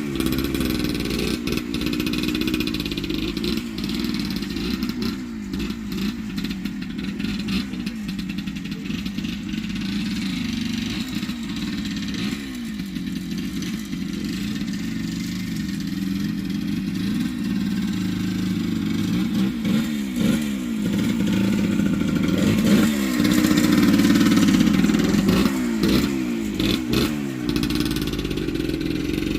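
1978 Yamaha DT100's two-stroke single-cylinder engine revving up and down as the bike is ridden, its pitch rising and falling with the throttle and loudest about two-thirds of the way through. The carburettor's air screw has just been turned out another half turn in tuning.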